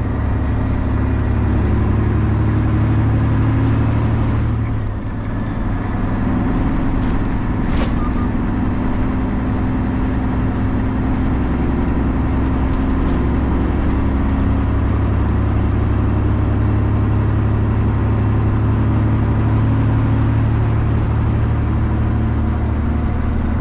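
Straight-piped Detroit Diesel 12.7-litre inline-six engine of a Freightliner semi truck running loud and steady under way, with a brief dip in the engine note about five seconds in before it picks up again.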